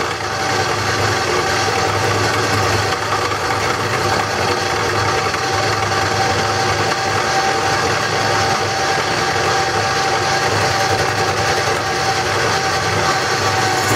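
Wood lathe running steadily with a bowl blank spinning on it: a constant low hum under a steady whine and hiss.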